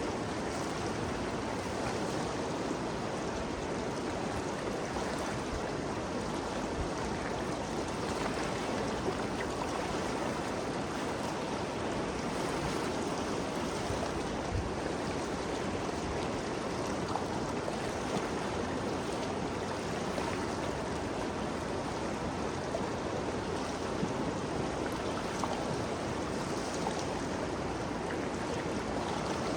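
Ganges River water flowing and rushing steadily, an even, continuous wash of moving water.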